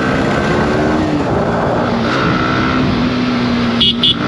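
Yamaha R15 V4's 155 cc single-cylinder engine running at steady low revs in traffic, with wind rush on the helmet microphone. Two short high-pitched beeps sound close together near the end.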